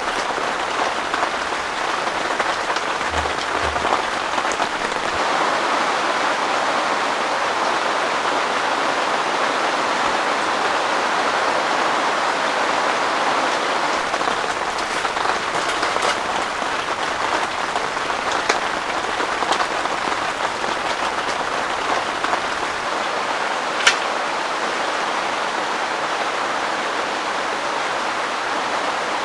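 Heavy rain pouring steadily and without pause. A few single sharp ticks stand out above it, the clearest about three-quarters of the way through.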